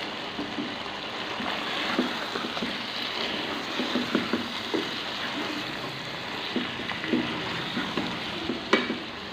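Chicken and onion masala frying in hot oil in a pot, sizzling steadily, while a spoon stirs and scrapes the pot in short, irregular strokes to mix in powdered spices.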